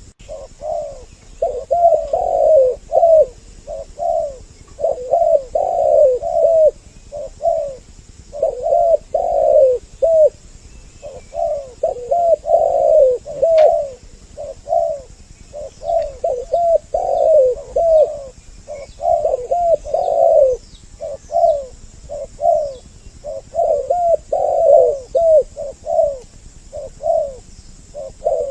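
Spotted doves (tekukur) cooing: two birds give phrase after phrase of soft, hoarse coos, often overlapping, with brief gaps between phrases.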